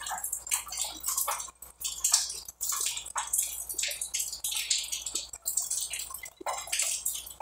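Close-miked chewing of a bread roll with mortadella: an irregular run of short, clicky mouth sounds with brief pauses.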